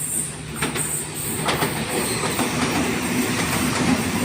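Electric H-set 'Oscar' outer-suburban train running through the station without stopping: a steady rumble of wheels on rail, with a few sharp clicks over the rail joints in the first second and a half, growing a little louder as the train comes by.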